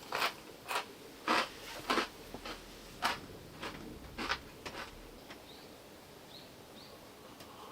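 Eating sounds up close: a run of sharp, crisp clicks and crunches, roughly one every half second, that stop about five seconds in. A few faint short chirps follow near the end.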